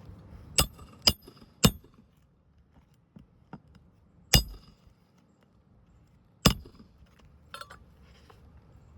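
Nails being driven into a new asphalt roof shingle: five sharp strikes with a metallic ring. Three come in quick succession about a second in, then two single strikes a couple of seconds apart.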